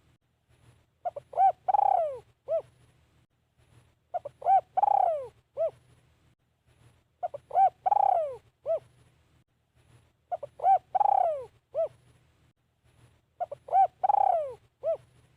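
Spotted dove cooing its phrase five times, about once every three seconds. Each phrase is a few short coos, then a longer coo that falls in pitch, then one last short coo.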